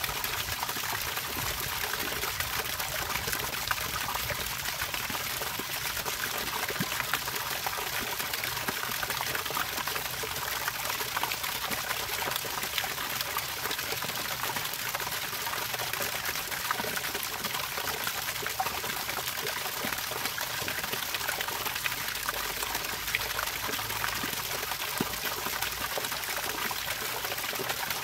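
Running water trickling and splashing steadily, with many small droplet splashes over an even hiss.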